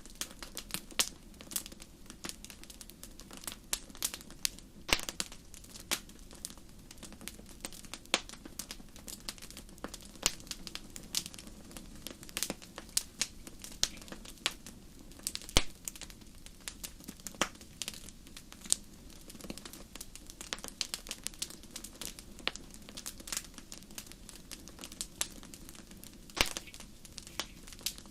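Wood fire crackling in a fireplace: irregular sharp pops and snaps, some louder than others, over a soft, steady low background.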